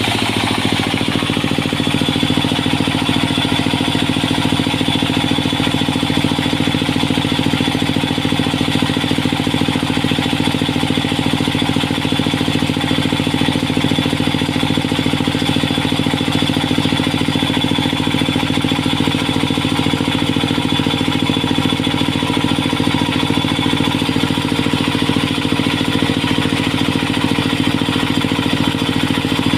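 Sawmill engine running steadily at a constant speed, a loud even hum.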